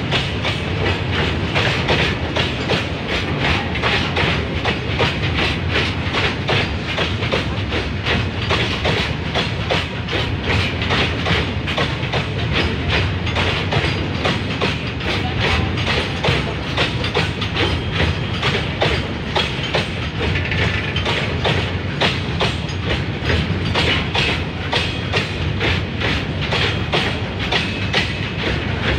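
Freight train of BOXN open wagons and steel-coil flat wagons rolling past, wheels clacking in a fast, steady rhythm over the rail joints over a continuous rumble.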